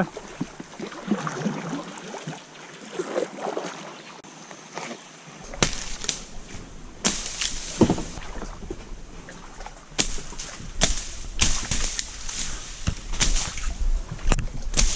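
Kayak being paddled through river water: sloshing and splashing from the paddle strokes. From about five seconds in, a low rumble joins and a string of sharp knocks and clatters comes every second or so.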